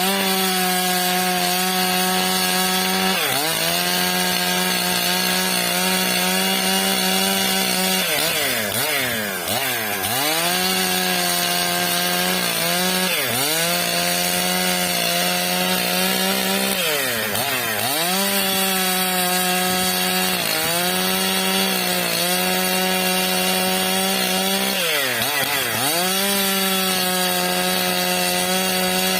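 Stihl MS 661 two-stroke chainsaw ripping a eucalyptus log lengthwise into planks, running at high speed. Its pitch sags and recovers about eight times as the chain loads up in the cut.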